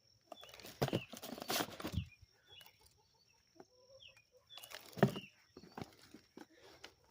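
Hands rummaging and scraping through loose potting soil in two spells, the second with a sharp knock, while digging out potatoes. Faint bird chirps come and go.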